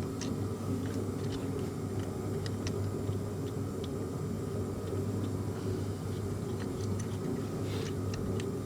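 Steady low background hum with scattered light clicks and taps, as of hand work on engine parts.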